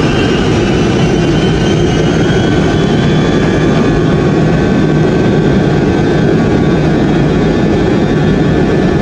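Boeing 707's four JT3D turbofan engines at takeoff power: a loud, steady roar with high whining tones that climb slowly in pitch.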